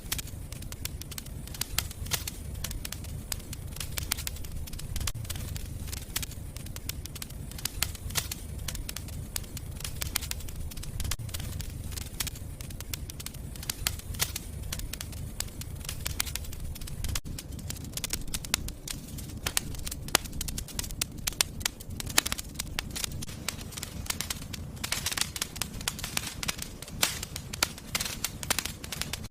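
Wood fire burning in a fireplace: a steady low rumble of the flames with constant sharp crackles and pops, the crackling thickening near the end.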